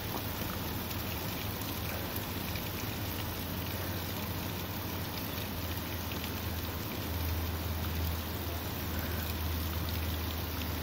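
Steady heavy rain falling during a thunderstorm, with a low rumble underneath that swells a little for a few seconds near the end.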